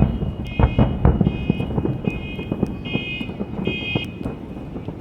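Fireworks going off in quick succession: deep booms and crackling, heaviest in the first second or two. An electronic alarm beeps over them about once every 0.8 seconds and stops about four seconds in.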